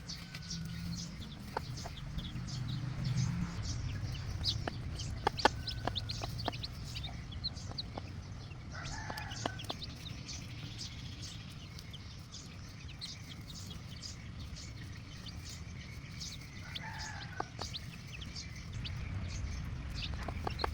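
Mother hen clucking, with two louder calls partway through, amid many short high chirps and sharp ticks over a low steady rumble.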